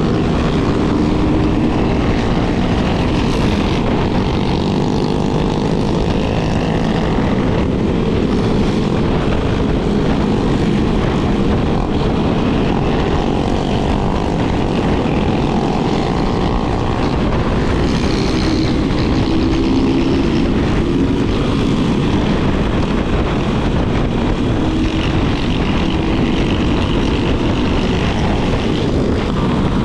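A Yamaha Lander 250's single-cylinder engine running while riding, its pitch rising and falling with the throttle, under heavy wind rush on the camera microphone.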